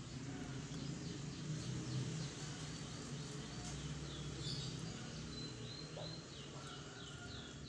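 A bird calling over and over in the background, a quick run of short high chirps, over a steady low hum.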